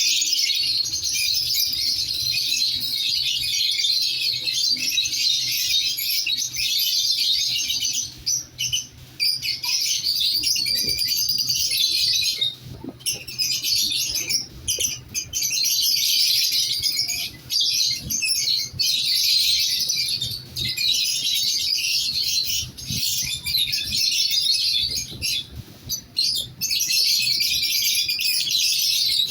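Lovebirds chattering: a dense, continuous high-pitched chirping that drops out for brief moments now and then.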